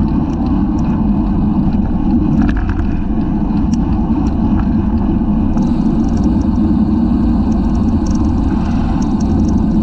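Steady wind rush and rumble on a bike-mounted camera's microphone while riding at race speed, with scattered faint clicks and rattles.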